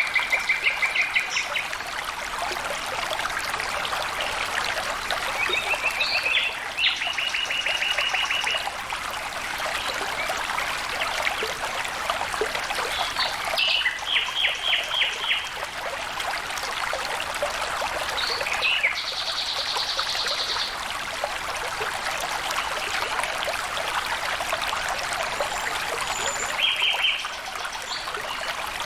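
Water flowing and trickling steadily, a stream's continuous rush. Small birds give short trills of rapidly repeated notes about five times over it, one of them higher-pitched.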